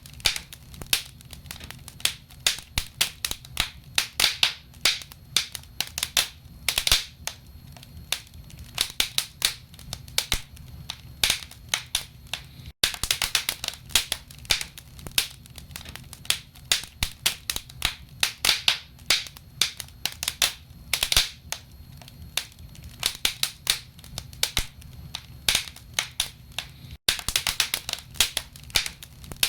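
Logs burning in a fireplace, crackling with many irregular sharp pops and snaps over a low steady rumble. The sound cuts out for an instant twice, near the middle and near the end.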